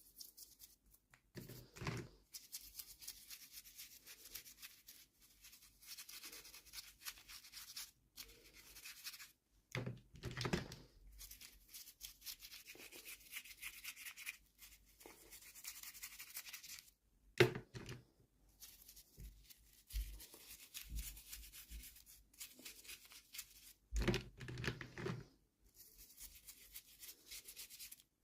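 Hands handling and opening toy packaging: stretches of rustling, scratching and tearing, broken by a few soft knocks, the sharpest about seventeen seconds in.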